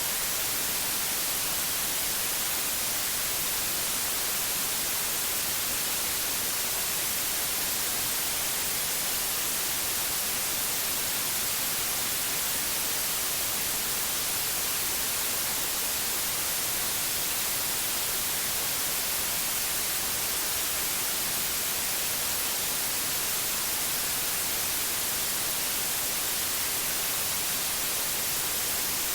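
Steady white noise: an even, unbroken hiss, brightest in the high end, with no changes or other sounds.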